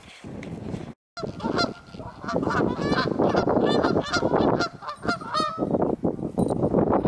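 Geese honking, many overlapping calls in quick succession, beginning after a brief gap in the sound about a second in.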